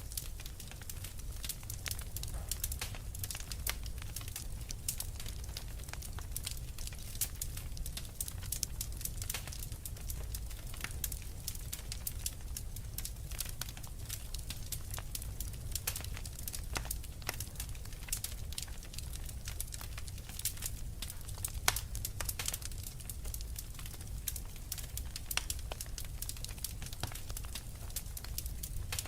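Fireplace fire crackling, with frequent sharp pops and snaps over a steady low rumble of flame.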